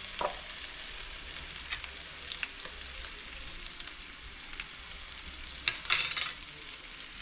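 Chopped onion and salt sizzling in hot oil in a frying pan, stirred with a utensil that clicks and scrapes against the pan; a louder scrape comes about six seconds in.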